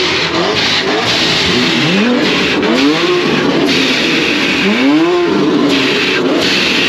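Car engine revved again and again: short quick blips and two longer climbs in pitch, about three and five seconds in, over loud steady noise.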